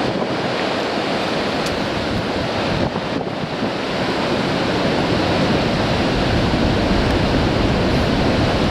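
Heavy sea surf breaking on coastal rocks, with strong wind rumbling on the microphone; the surge grows louder about halfway through.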